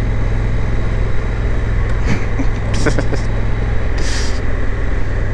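Motorcycle under way on a gravel road, heard from the rider's own mic: a steady low engine and wind rumble. Short hissing bursts come about two, three and four seconds in.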